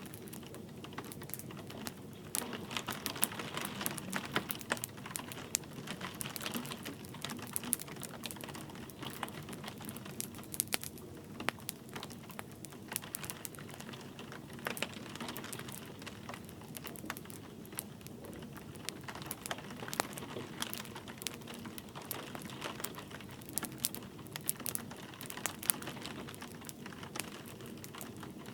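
Wood fire crackling and popping in a fireplace, with irregular sharp snaps over a steady hiss of light rain.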